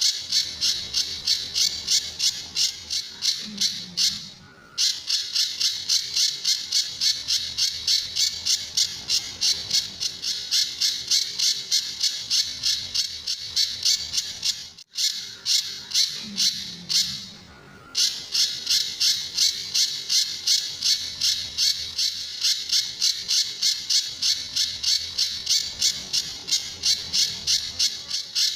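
A pijantur songbird calling in a fast, even string of high, sharp notes, about three a second, with two short pauses. This is the bird's typical 'tembakan' (shot) call, used as master song to train other songbirds.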